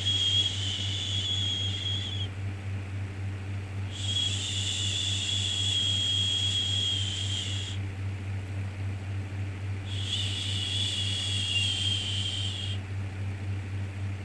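Rhythmic 'shhh' shushing for soothing a baby: a long hiss of three to four seconds repeating about every six seconds, the first fading out about two seconds in, the others starting at about four and ten seconds, with the next just beginning at the end. Under it runs a steady low hum.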